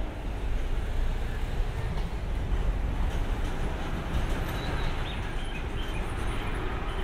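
Train running along the track: a steady low rumble, with a few faint short squeals from the wheels about halfway through.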